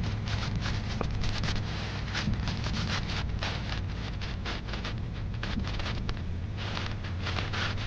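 Motorcycle engine running at a steady speed while riding, a constant low hum, with wind buffeting the microphone in irregular gusts.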